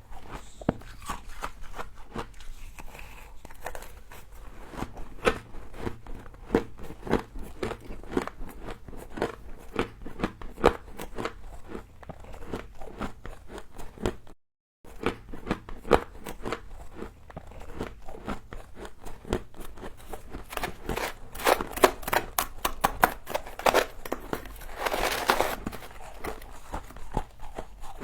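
Close-up crunching of humidifier frost being bitten and chewed: a dense run of crisp crunches and crackles, with a longer, fuller crunch near the end. The sound cuts out completely for a moment about halfway through.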